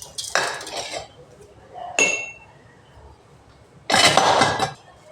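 Kitchen dishes and utensils clattering: a short rattle, then a single ringing clink about two seconds in, and a louder clatter about four seconds in.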